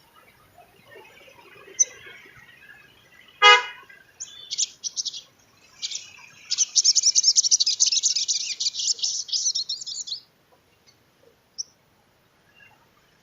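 Sogon trotol (sunbird) singing a high, rapid, twittering chatter, in short bursts at first, then a sustained run of about four seconds. A brief, loud, buzzy toot comes just before the song starts.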